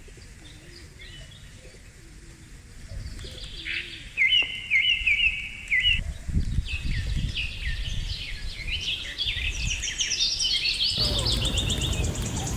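Several birds chirping and calling at once in quick repeated notes, getting louder and busier about a third of the way in. A low rumble runs under the chirping in the second half.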